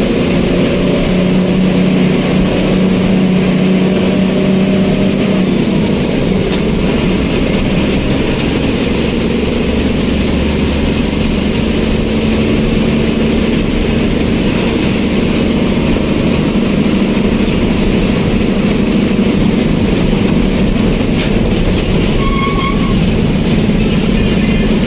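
A motor vehicle driving along: steady engine drone and road noise, with the engine note shifting slowly in pitch.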